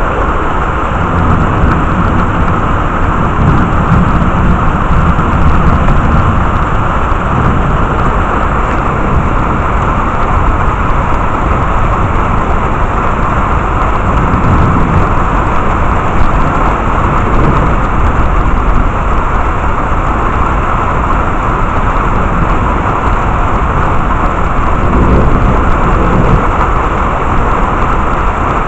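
Heavy rain pouring steadily during a thunderstorm, with low rumbles of thunder swelling up a few times.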